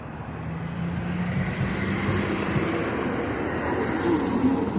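Street traffic: a motor vehicle passing close by, its engine hum and tyre noise swelling about a second in and staying loud.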